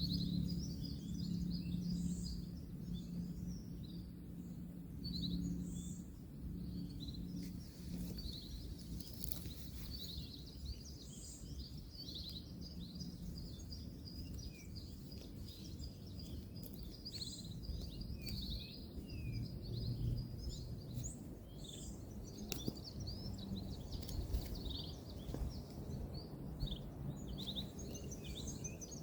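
Wild birds chirping and calling continuously, many short repeated notes, over a low rumble of distant road noise. A steady low hum in the background fades out about seven seconds in.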